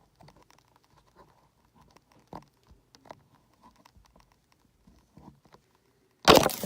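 Scattered light taps and clicks from handling things at close range, then a loud brief rustle or scrape about six seconds in.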